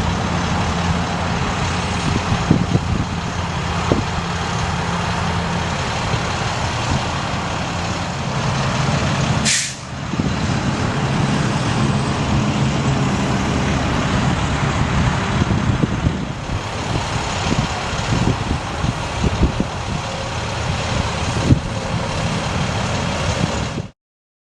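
Diesel engine of a 2005 International 4300 bucket truck running steadily, with a short sharp hiss about ten seconds in. The sound cuts off suddenly near the end.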